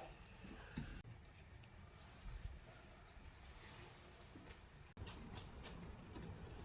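Faint steady high-pitched insect trill over a low background rumble, with a few soft knocks; the sound drops out briefly twice.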